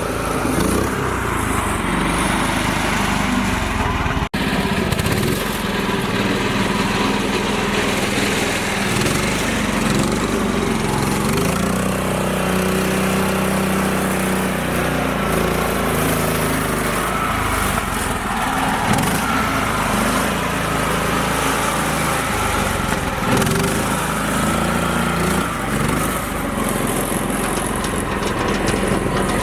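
Small tractor engine running continuously, its pitch drifting slightly up and down as it works, with a brief dropout about four seconds in.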